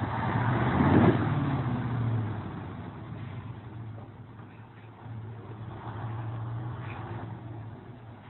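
A motor vehicle engine running. It swells loudest about a second in, as if the vehicle passes close, fades over the next couple of seconds, then comes back as a steadier hum.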